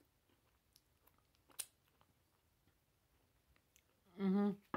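Faint chewing and wet mouth clicks from a person eating a cookie, with one sharper click about a second and a half in. Near the end comes a short hummed "mmm" of enjoyment.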